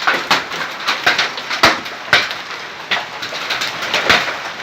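Large hailstones, about golf-ball size, striking hard surfaces in irregular sharp knocks, several a second, over the steady hiss of the storm.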